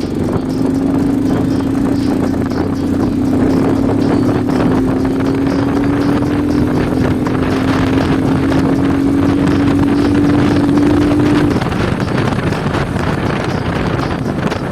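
Alpha moped's single-cylinder four-stroke engine running at steady speed, its exhaust made loud by the owner: one droning note that slowly climbs in pitch, then drops away about eleven seconds in.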